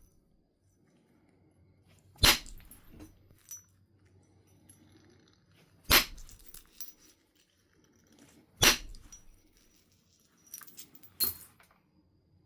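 Flint nodule being knapped by percussion: three sharp knocks a few seconds apart, each followed by a short rattle. Near the end comes a quick run of lighter taps and then one more knock.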